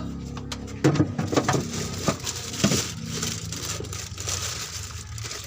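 Hand tools clinking and knocking against metal engine parts: a quick cluster of sharp knocks in the first three seconds or so, over a steady low hum.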